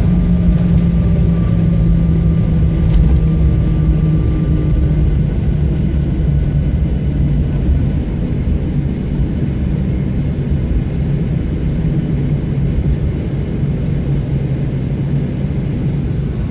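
Airliner noise after landing: a steady low rumble with a hum and a faint whine that fades out about five seconds in, the whole slowly easing off.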